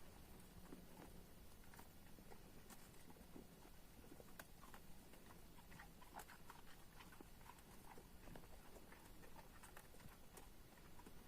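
Faint, irregular crunching and clicking of goats and sheep chewing forage cactus pads (orelha de elefante palma).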